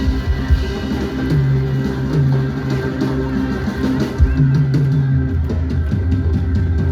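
Live band playing an instrumental passage with drum kit, bass and guitar, recorded from the room.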